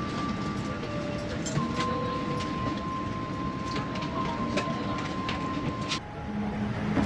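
Steady cabin noise of a Boeing 787-9 parked before departure: a constant rumble of air conditioning and aircraft systems with a thin steady whine, dotted with light clicks and clinks. The background changes abruptly about six seconds in.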